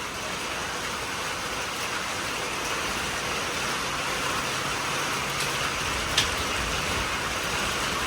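Heavy rain falling steadily, a dense even hiss, with one sharp tap about six seconds in.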